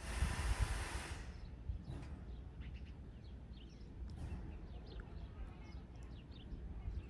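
A loud hiss cuts off about a second in. After it, birds chirp with many short calls over a low rumble.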